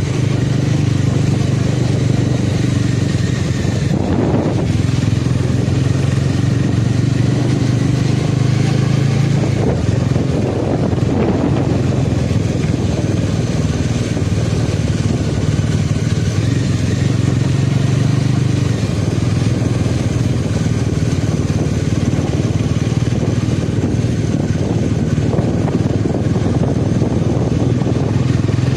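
Motorcycle engine running at a steady pace while riding, under a steady rush of wind and road noise, with a couple of brief swells.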